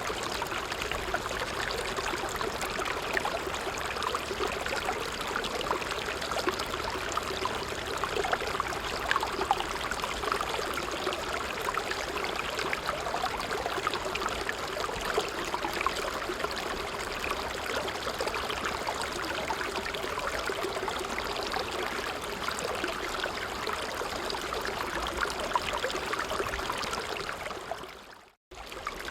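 A small stream flowing steadily over stones, a continuous rush and trickle of water. The sound fades out to silence for a moment near the end and comes straight back, as at the join of a looped recording.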